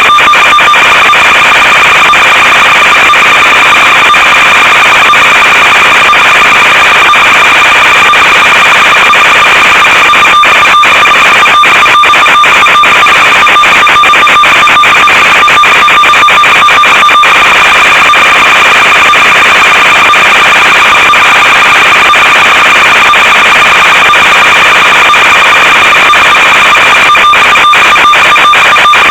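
Loud, steady electronic buzz and hiss with a constant tone and its overtone, broken by frequent brief dropouts: the audio channel of an analog FPV video link recorded by the goggles' or receiver's DVR, carrying static rather than sound.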